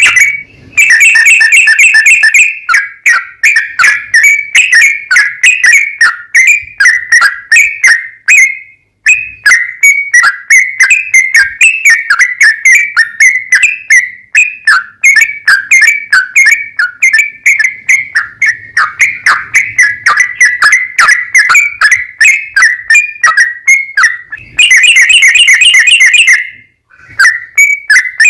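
Yellow-vented bulbul singing a long, unbroken run of short, rapid whistled notes, several a second. The song is denser and fuller briefly near the start and again near the end.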